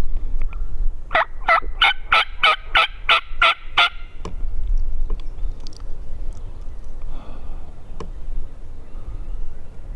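Turkey calling: a run of about nine yelps at about three a second, each note rising in pitch, lasting about three seconds and then stopping.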